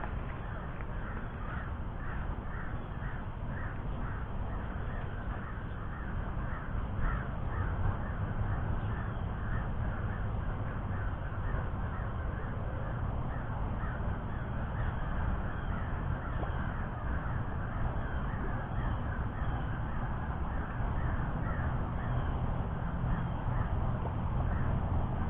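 Short bird calls repeating steadily, about two or three a second, over a low rumble.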